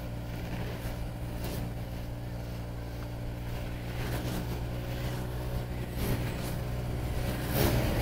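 Honda Vario scooter's single-cylinder engine running steadily at low speed while riding slowly alongside queued traffic. It gets a little louder near the end.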